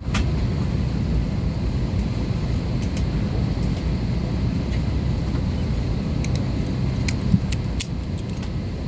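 Airbus A320 cabin ambience before departure: a steady low rumble of the cabin air-conditioning, with scattered light clicks and rattles.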